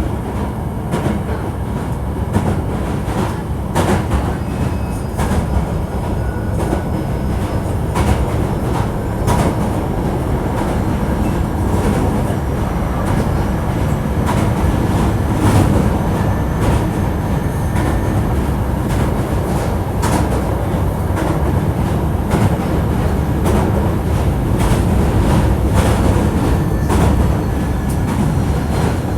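Hankyu 1300 series electric train running at steady speed, heard from inside the car: a continuous rumble with frequent short clicks from the wheels over the track, and faint whining tones above it.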